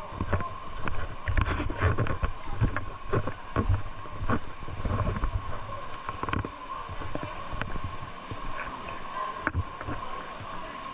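Water splashing and sloshing in irregular bursts, busiest in the first half, over a faint steady tone.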